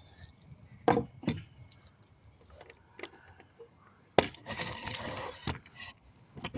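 Denailing a wooden pallet plank with a hammer: two sharp knocks about a second in, then a louder strike a little past the middle followed by about a second of rasping scrape and crackle, with small metallic clinks scattered throughout.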